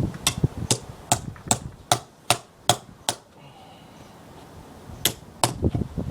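Hammer striking a chisel into a wooden log, knocking out chunks of wood while hollowing it. Eight quick, even strikes at about two and a half a second, a pause, then two more near the end.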